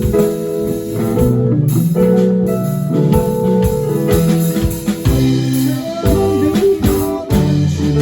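Live band playing an instrumental passage: guitar notes ring out over bass and drums.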